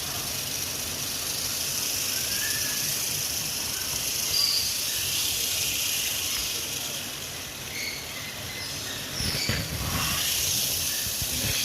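Porcupine shaking its quills, a steady dry rattling hiss with a few clicks about nine seconds in: the porcupine's warning display to a threat.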